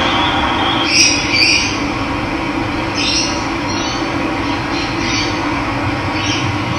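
Steady rush of running water, with birds giving short chirping calls over it several times.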